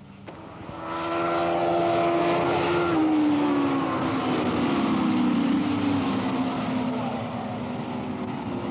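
Superbike racing motorcycles running at speed. Their engine note comes in loud about a second in and then falls steadily in pitch as they go by.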